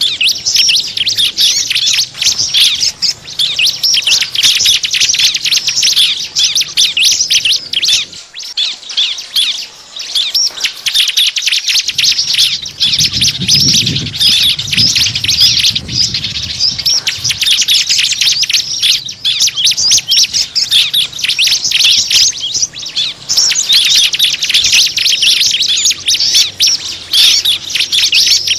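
Dense, continuous rapid chirping and twittering of small birds: a bird-lure (pikat) call used to draw small birds in. A low rumble briefly joins about halfway through.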